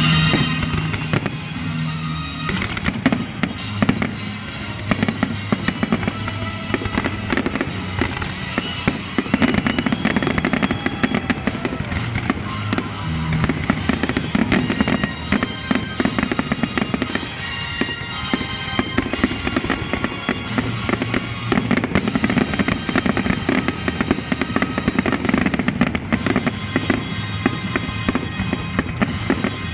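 A fireworks display, with a rapid, continuous string of aerial shell bursts and music playing along with it.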